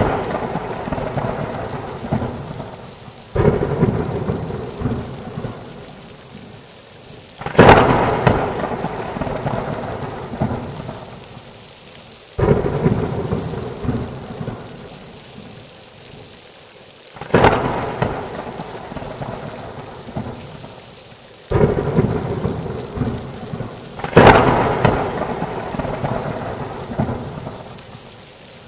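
Thunderstorm: six sudden thunderclaps about four to five seconds apart, each cracking and then rolling off over a few seconds, over steady heavy rain.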